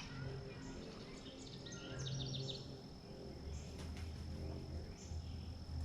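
Faint outdoor ambience: a bird chirps a quick run of short notes about two seconds in, over a steady high insect buzz and a low hum.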